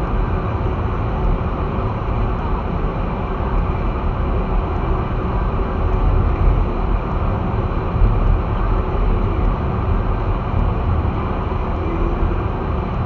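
Steady low rumble of an all-wheel-drive vehicle driving on snow-covered roads: tyre and engine noise with no change in pace.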